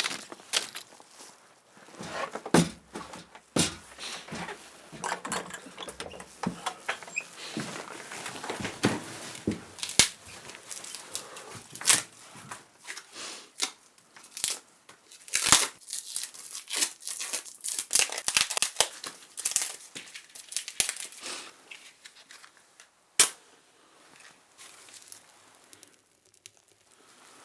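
Fire being laid in the cabin: irregular tearing and crumpling of kindling with scattered sharp knocks of wood being handled, one loud knock about 23 seconds in. The small room is audible in the sound.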